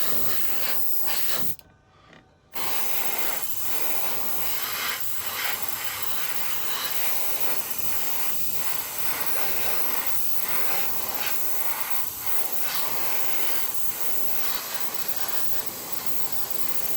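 Aerosol spray-paint can spraying a plastic model part in a steady hiss, released for about a second near the start and then held down again.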